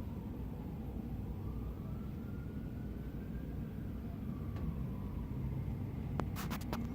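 Low rumble of city street traffic with a police car siren wailing faintly in the distance, its pitch slowly falling and rising. A few sharp clicks come about six seconds in.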